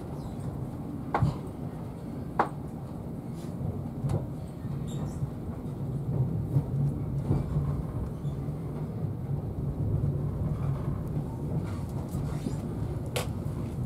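Steady low rumble inside a Class 43 HST's Mark 3 passenger coach as the train rolls out at low speed, with a few sharp clicks and knocks, the loudest about a second in, about two seconds in and near the end.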